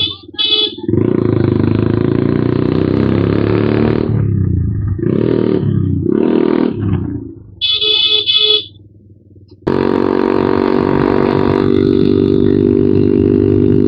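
Suzuki Gixxer's single-cylinder engine through an aftermarket exhaust, revving up and dropping off several times, then running steadily from about ten seconds in. Two quick horn beeps sound at the start and two more about eight seconds in.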